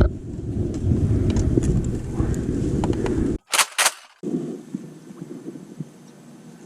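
Wind buffeting the microphone as a loud low rumble that cuts off abruptly about three and a half seconds in. Two short, sharp snaps follow close together, then a faint steady hiss.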